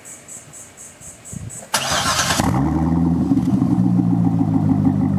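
2012 Corvette C6 V8, fitted with a Billy Boat Bullet exhaust, cranked by the starter and catching about two seconds in with a loud flare of revs, then settling into a steady idle.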